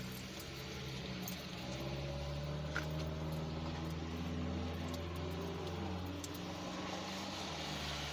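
Car engine running, heard from inside the cabin, with a low steady hum whose pitch rises slightly about a second in and eases back down around six seconds in.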